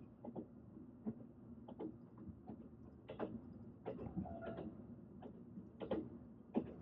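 A train running: a low steady rumble with irregular clicks and knocks, and a brief whine about four seconds in.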